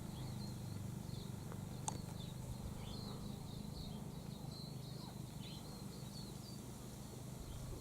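Faint, scattered short bird chirps over a steady low background hum, with a single sharp click about two seconds in.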